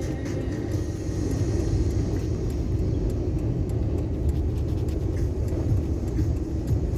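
Steady low rumble of a motor vehicle driving on the road.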